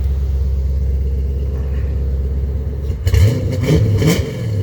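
1985 Corvette's 5.7-litre V8 idling through a cat-deleted X-pipe exhaust with Flowmaster Super 10 mufflers, then revved twice in quick succession about three seconds in, pitch rising and falling each time.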